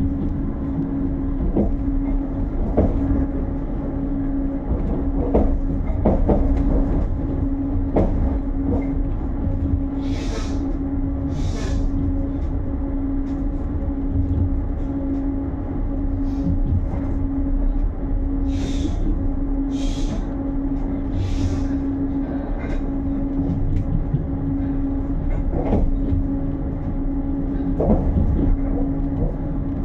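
Long-distance passenger train running, heard from inside the carriage: a steady rumble with a constant hum, scattered knocks from the wheels on the track, and a few short hisses around the middle.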